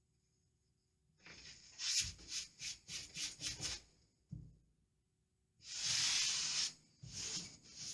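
A brush swept over lining paper: a run of quick hissing strokes, about four a second, a single knock, then one longer sweep and more strokes near the end.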